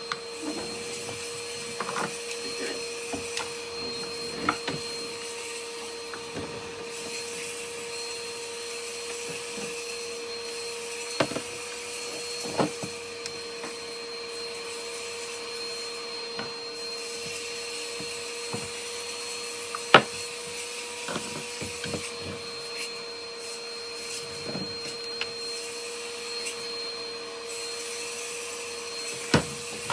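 Vacuum cleaner running steadily with a constant hum, with scattered sharp clicks and crunches of debris being sucked up. The loudest crack comes about twenty seconds in.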